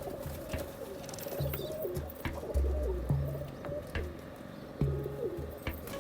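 Pakistani pigeons cooing, their calls wavering up and down over a low, regular background music beat.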